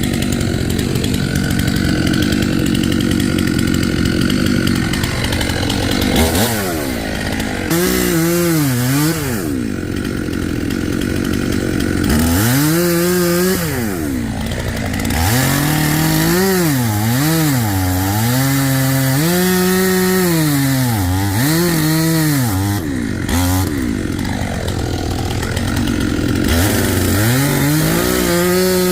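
Two-stroke chainsaw cutting wood. It runs at a steady high speed at first, then from about six seconds in its pitch repeatedly dips and climbs again as the chain bogs down in the cut and revs back up.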